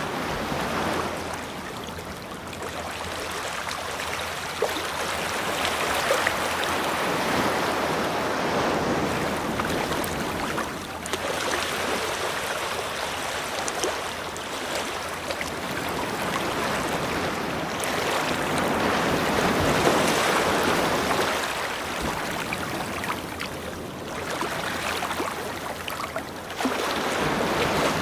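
Ocean surf washing onto a beach, the rush of water swelling and falling away in slow surges every several seconds.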